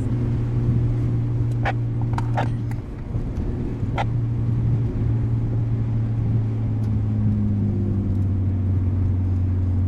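Straight-piped RB20 inline-six of an R32 Skyline cruising at low speed, a steady low exhaust drone. The pitch steps down slightly about halfway through.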